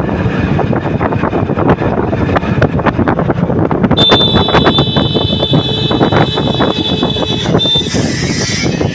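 Steady rumble and rattling of a moving vehicle. About four seconds in, a high steady squeal or whistle starts, holds for about three and a half seconds, then sounds once more briefly.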